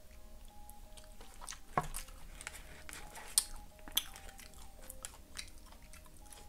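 Close-up chewing and mouth sounds of a person eating a forkful of rice and guacamole, with a few sharp clicks of a fork against a foil takeout tray about 2, 3.5 and 4 seconds in.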